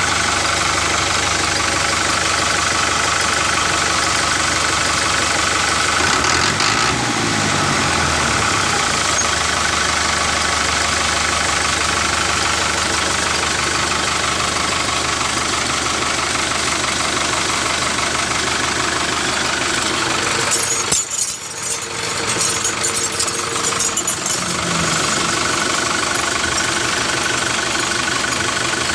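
A small motor running steadily with a buzzing hum. Its pitch drops briefly a few seconds in, and near two-thirds of the way through it dips for a moment with some clicking.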